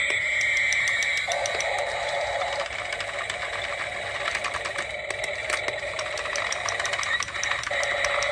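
Battery-powered toy running: a small electric motor and plastic gears clicking and rattling rapidly, with electronic toy tones over it.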